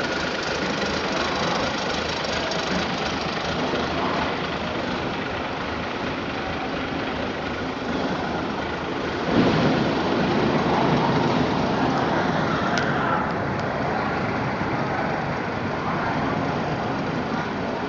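An engine running steadily amid industrial machinery noise, getting louder about nine seconds in.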